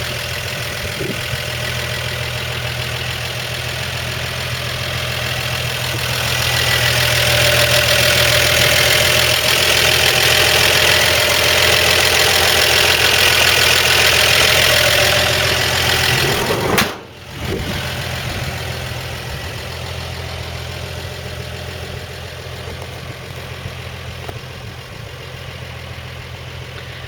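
The 1955 Chevrolet 3100's original 235 cubic inch straight-six idling smoothly and steadily ("purring away"). It grows louder for several seconds in the middle, and the sound briefly drops out about seventeen seconds in before the idle carries on.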